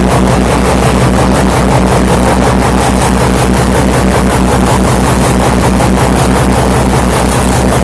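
A motor boat's engine running steadily at speed, a loud low hum with a rapid, even throb.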